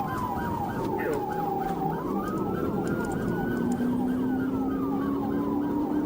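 Two police sirens sounding together during a pursuit: a fast yelp repeating about four times a second over a slow wail that falls, climbs and falls again. A vehicle engine runs underneath, its pitch rising from about halfway through.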